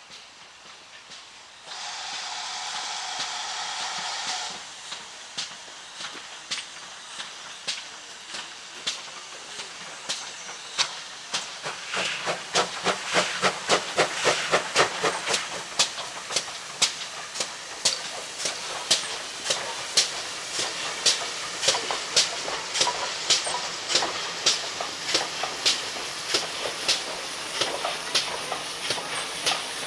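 GWR 4144, a Large Prairie 2-6-2 tank steam locomotive, gives a loud burst of steam hiss for about three seconds. It then moves off with regular sharp beats that start slowly and quicken to about two a second.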